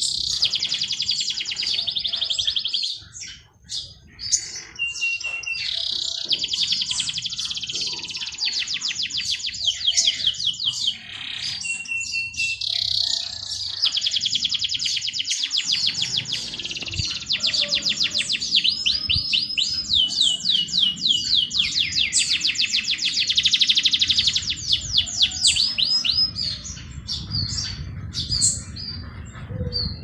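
Several small birds chirping and singing: fast high trills of rapidly repeated notes nearly throughout, with a few short steady whistles in the first half.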